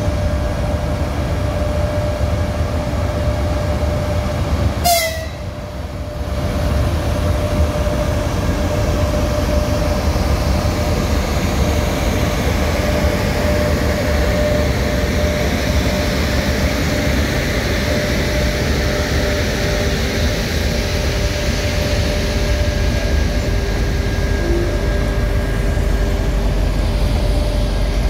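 EP1M electric locomotive pulling a passenger train slowly away from the platform: a steady rumble of wheels and running gear with a constant whine, as the locomotive and then the towed TEP70BS diesel roll past. The sound briefly dips about five seconds in.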